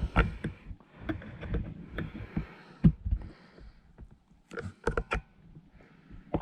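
Plastic clicks and scraping as a pick works at the locking tabs on the back of a car door card. There are scattered taps and a few sharper clicks close together in the second half.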